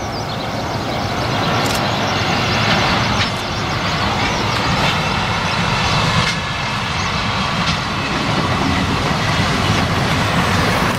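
JR Freight EF65 electric locomotive hauling a train of container wagons, approaching and passing close by: a steady rumbling train noise that grows louder over the first couple of seconds, with occasional sharp clicks.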